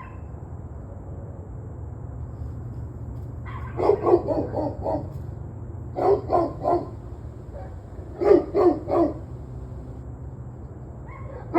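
A dog barking in three bouts of about three to five quick barks each, with pauses of a second or more between them, and a single bark near the end, over a steady low hum.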